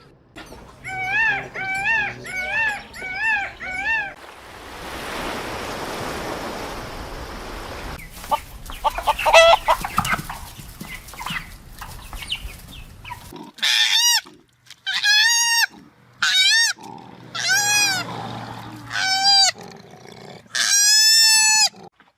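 Animal calls from several different clips. First a quick run of short repeated high calls, then a few seconds of hissing noise, then about six separate calls that rise and fall in pitch, the last one the longest.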